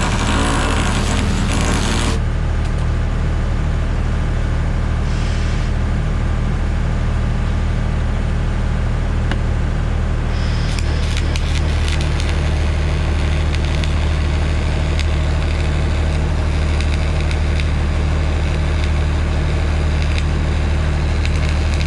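Heavy engine running steadily at a constant speed. From about ten seconds in, a sharp crackling joins it.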